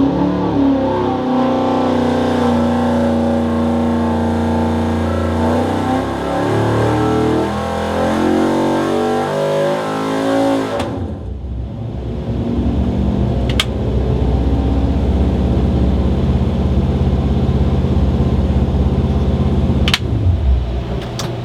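Ford 302 V8 running on an engine dyno under a power pull. For the first half it holds steady speeds with shifting pitch. About halfway through the sound turns abruptly to a rougher, denser low rumble, with a couple of sharp clicks. Near the end the revs fall away.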